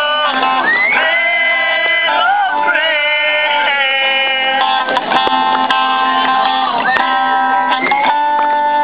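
Live music: a guitar playing with a voice singing a melody over it, the sung pitch sliding up and down between held notes.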